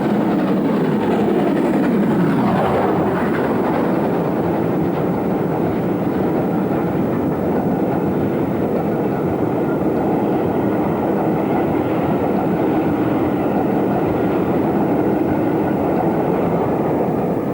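Great Western Railway Castle-class four-cylinder 4-6-0 steam locomotive hauling a train past, a steady mix of locomotive and wheels-on-rails noise. The pitch falls in the first few seconds as it goes by.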